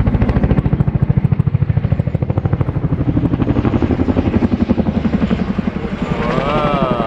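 Boeing Chinook tandem-rotor helicopter flying overhead: loud, rapid rotor blade slap over turbine engine noise. A brief wavering high-pitched sound comes near the end.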